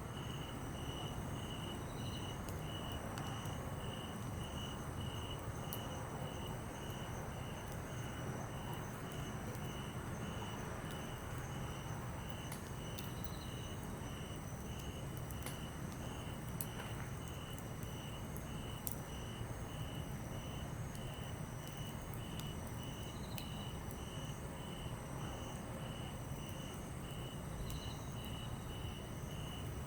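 A wood campfire of softwood and hardwood logs crackling, with scattered sharp pops. Insects chirp steadily behind it in an even pulsing rhythm of about three chirps a second.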